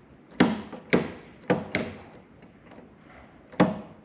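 Five sharp clacks and knocks with short ringing tails, four in the first two seconds and one near the end, from parts of an old Ryobi table saw being handled and worked.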